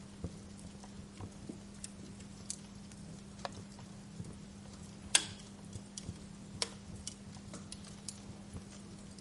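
Wood fire crackling: irregular small snaps and ticks, with one loud pop about five seconds in. A steady low hum runs underneath.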